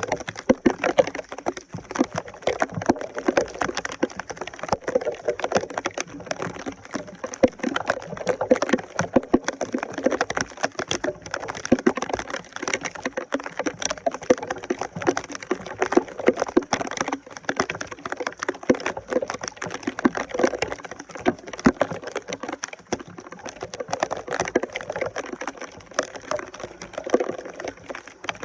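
Water splashing and gurgling, with a dense run of small irregular clicks and crackles throughout.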